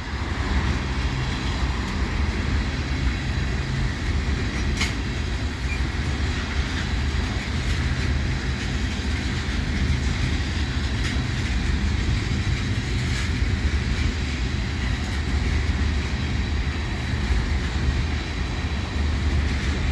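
Freight train cars, mostly tank cars, rolling steadily past: a continuous rumble of steel wheels on rail with a few sharp clicks from wheels passing over rail joints.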